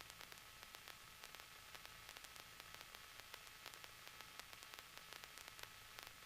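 Near silence: faint static hiss with light crackles on a cockpit intercom recording line whose open-mic noise has just cut off.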